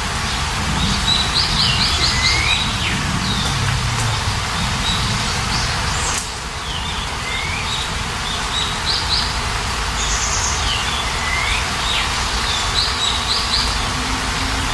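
Steady rain with songbirds chirping over it: bursts of quick high chirps and short falling whistles, the same figure recurring about every six seconds.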